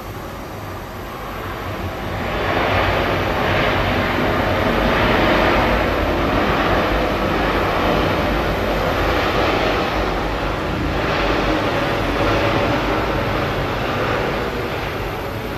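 Boeing 787 Dreamliner twin-engine jet airliner landing: its jet noise swells about two seconds in, stays loud and rushing, and eases off near the end.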